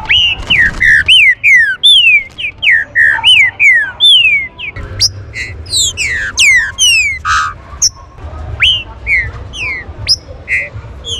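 Green-winged saltators (trinca-ferro) calling: a rapid, busy string of short, sharply falling whistled notes, several overlapping at a time, with no pause.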